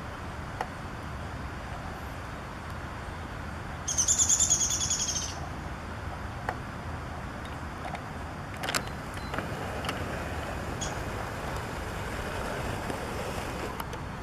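A small bird gives one rapid, high trill lasting about a second and a half, about four seconds in, over a steady low outdoor rumble.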